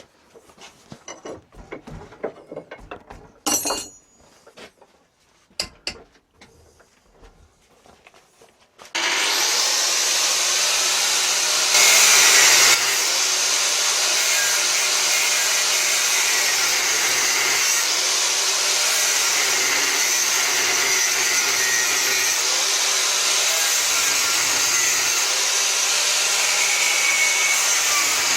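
A few light knocks and clicks of handling, then about nine seconds in an angle grinder starts abruptly and runs steadily, cutting into a 16 mm square mild steel bar. It grows briefly louder for about a second soon after it starts, and its motor tone dips now and then under load.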